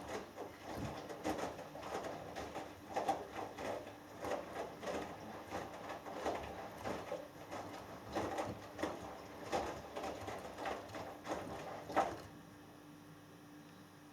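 Hoover Dynamic Next front-loading washing machine's drum tumbling a 6 kg load of cottons in water, with irregular sloshing and soft thumps over a steady low motor tone. The tumbling stops suddenly about twelve seconds in, leaving a faint steady hum.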